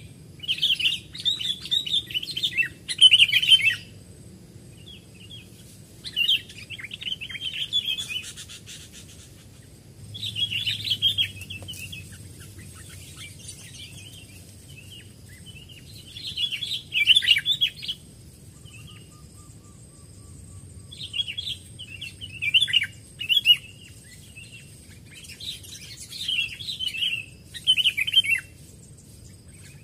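Sooty-headed bulbuls chirping in short bursts of quick, high notes that come every few seconds.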